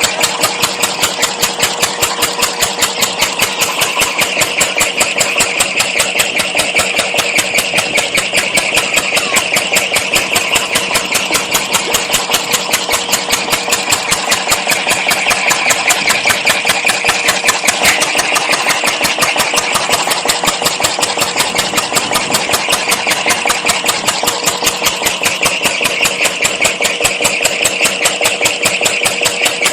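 Small homemade engine built from a gas bottle, running steadily with a quick, even beat of sharp pulses.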